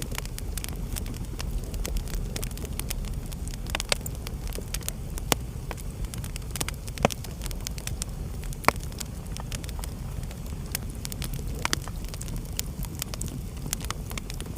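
Wood fire burning in a fireplace: a steady low rumble of the flames with irregular crackles and sharp pops, a few louder ones about five, seven and nine seconds in.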